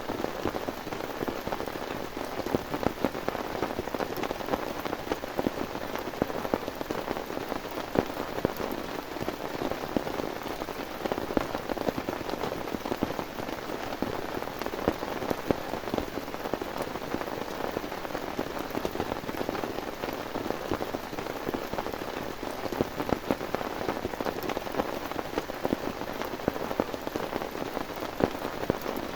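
Heavy rain falling steadily, with many sharp individual drop hits pattering on a surface.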